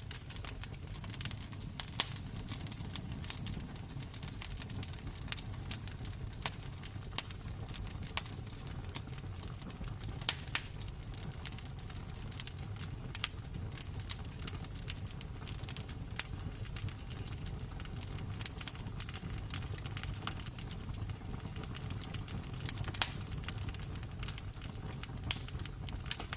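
Wood fire crackling in a fireplace: irregular snaps and pops, a few of them sharp and loud, over a steady low rumble.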